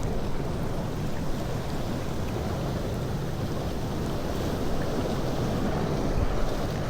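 Steady rumbling noise of wind buffeting the microphone, mixed with the wash of sea surf.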